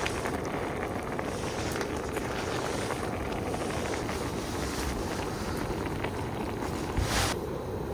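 Wind buffeting the microphone: a steady low rumble with faint scattered crackles, and one brief louder noise about seven seconds in.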